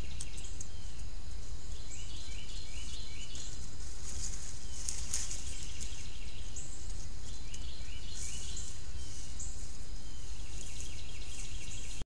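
Outdoor ambience on a trail camera's microphone: a steady low rumble, with a small bird calling a quick series of five or six short falling notes twice, about two seconds in and again about eight seconds in. A brief crackle comes about halfway through.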